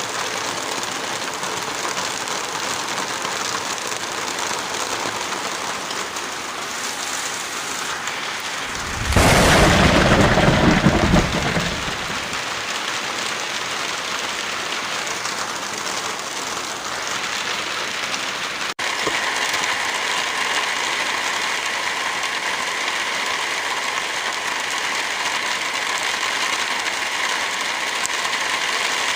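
Heavy rain falling steadily. A loud deep rumble rises out of it about nine seconds in and lasts around three seconds. Near the middle the rain cuts out for an instant and comes back slightly louder and brighter.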